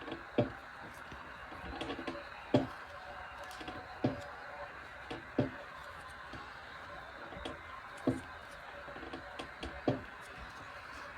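Dull thumps and light taps from pressing and tapping a shape down into a slab of modelling clay on a tabletop. There are about six firm thumps at irregular intervals, with softer ticks between them.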